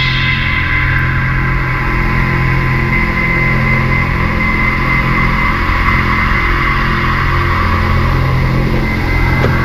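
Steady mechanical drone made of several held tones, low and mid pitched, over a faint hiss, running evenly throughout.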